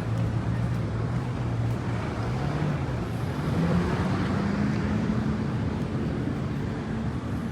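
Train running with a steady rumble and a low hum that rises in pitch a few seconds in and then holds steady, as the train picks up speed.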